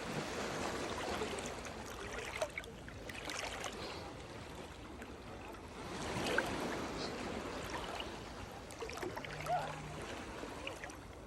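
Small Atlantic waves lapping and washing at the shore, the water sound swelling and easing about every six seconds.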